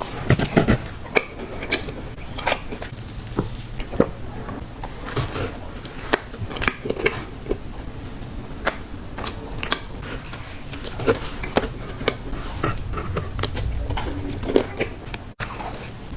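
Close-miked eating of Crumbl cookies: biting and chewing with many small, sharp clicks and taps.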